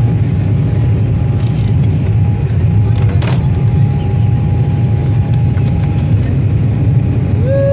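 Steady low rumble of airplane cabin noise in flight, with a thin steady tone above it and a brief click about three seconds in.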